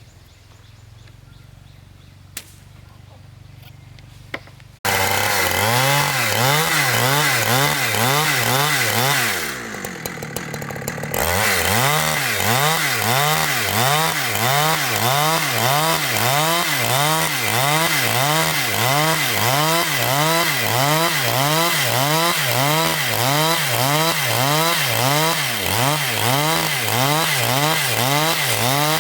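A powered saw for cutting boards from logs starts abruptly about five seconds in and runs loudly, its pitch rising and falling in a regular repeating pattern, with a short drop in level near ten seconds.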